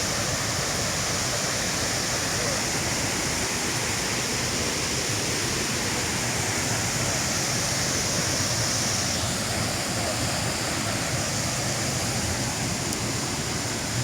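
Steady rushing of flowing river water, an even hiss with no beat. The hiss eases slightly about two-thirds of the way through.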